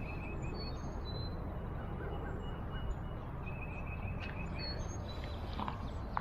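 Small birds calling with short high chirps and a couple of brief trills, over a steady low background rumble.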